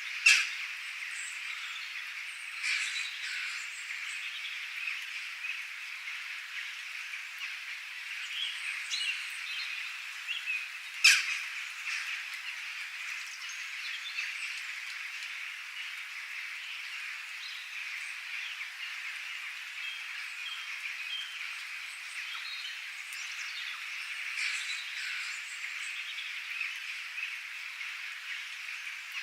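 Wild birds chirping and calling over a steady high-pitched chorus, with two sharper, louder calls, one right at the start and one about eleven seconds in.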